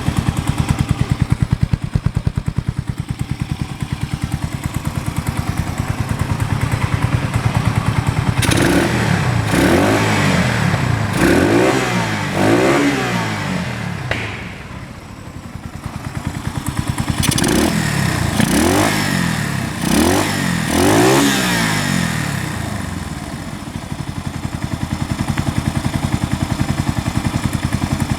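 Yamaha TW200's air-cooled single-cylinder four-stroke engine, breathing through a down-type muffler, idling with an even beat, then blipped up and down in short revs: about three a third of the way in, and about four more a little past halfway, before settling back to idle.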